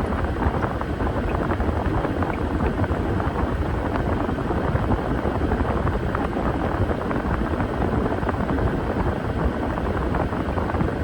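Washing machine running mid-cycle: a steady, dense rumble with a constant fine crackle.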